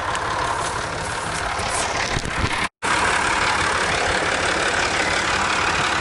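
An engine running steadily at idle, with a fast, even pulsing. It cuts out completely for a split second nearly halfway through, then carries on.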